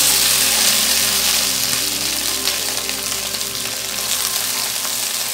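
Cut okra sizzling as it fries in hot mustard oil in a steel kadai, a dense steady hiss that is loudest just after the okra goes in and eases a little, while a wooden spatula stirs it.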